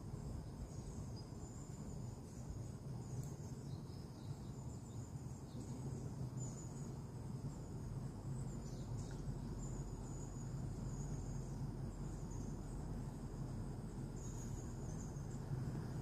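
Insects chirping in short, high-pitched trills that repeat every second or so, over a low steady hum.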